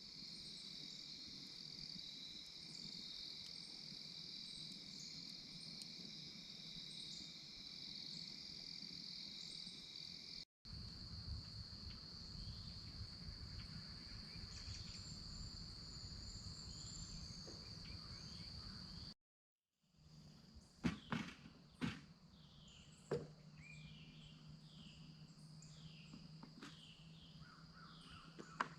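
Steady high-pitched chirring of night insects, joined partway through by a low rumble. After a brief dropout, birds call with a short descending note repeated about once a second, and there are a few sharp knocks.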